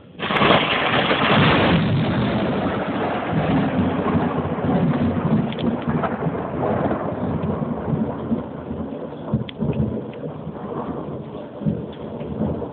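A sudden close thunderclap just after the start, then thunder rolling on and slowly fading, over steady rain.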